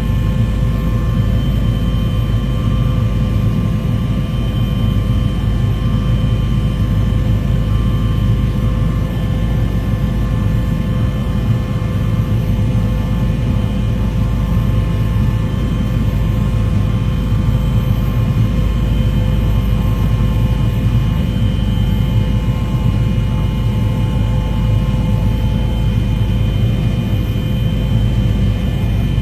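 Aircraft engine noise: a loud, steady drone over a low rumble, with a few constant high tones held throughout.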